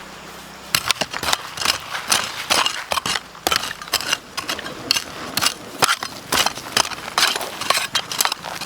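Irregular sharp knocks and scrapes, a few each second, starting about a second in.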